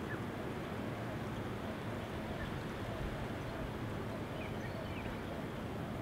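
Small birds chirping faintly in short calls, a few near the end, over a steady background hiss.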